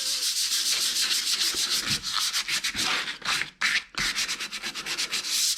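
Aluminum plate being sanded, a steady scratchy hiss of abrasive on metal as a swirl finish is put on it, with a brief pause a little past halfway.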